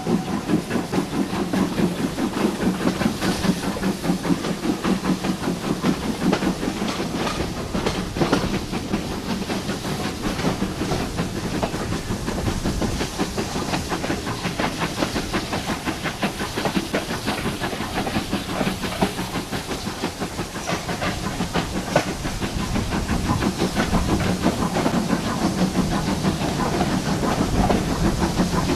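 Heritage train running on the line, with a steady hum and continuous rapid clatter from the wheels and track.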